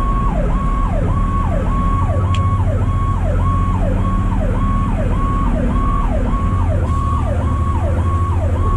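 Fire truck siren cycling quickly, just under twice a second: each cycle jumps up in pitch, holds briefly, then slides down. A steady low engine drone sits underneath.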